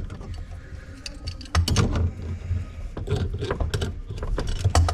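Irregular knocks, clicks and bumps of things being handled and moved around, with a few heavier low thuds.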